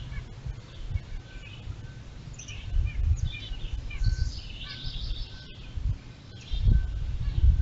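Small birds chirping, with one short note repeated about every half second, over a steady low rumble.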